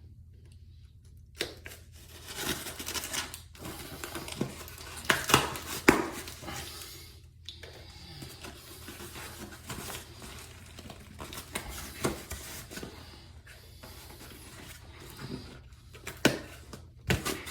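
A cardboard package being opened by hand: packaging tearing and crinkling in irregular bursts, with a few sharp knocks and clicks, starting about a second and a half in.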